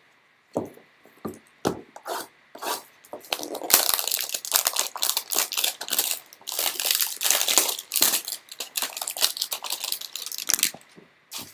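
Packaging of a Topps Heritage baseball card hanger box being torn open and crinkled. A few sharp ticks of handling come first, then about seven seconds of dense tearing and crinkling.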